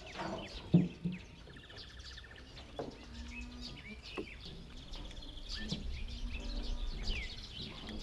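Songbirds chirping, with short calls and a fast trill. There is a short dull thump a little under a second in.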